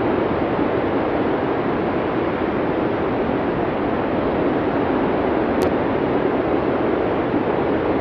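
Blizzard wind as a steady, even rush of noise with no gusts or changes in level, with a faint tick a little past the middle.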